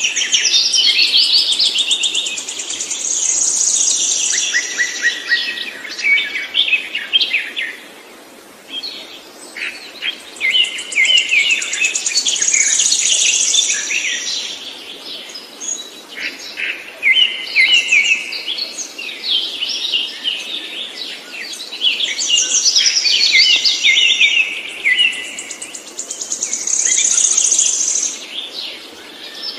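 A songbird singing long, fast-running phrases of high chirps and trills, each several seconds long, with short pauses between them.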